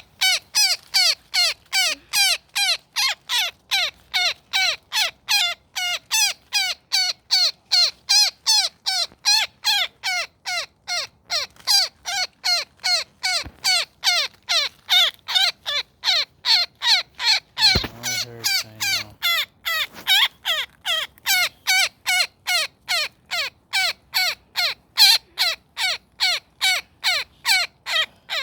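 Woodpecker caught in a net calling over and over, about two short harsh calls a second without a break: alarm and distress calls, 'calling for friends'.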